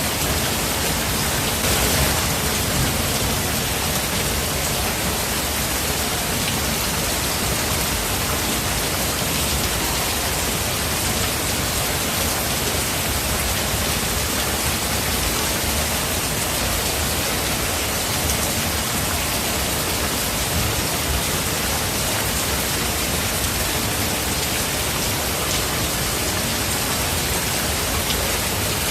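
Steady heavy rain falling in a forest, a dense even hiss of drops with a brief swell about two seconds in.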